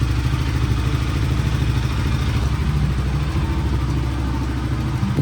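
Motorcycle engine running with a steady low, rapid beat.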